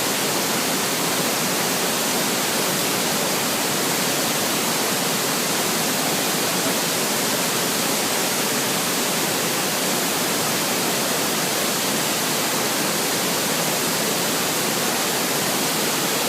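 Waterfall's falling water rushing in a loud, steady, unbroken roar.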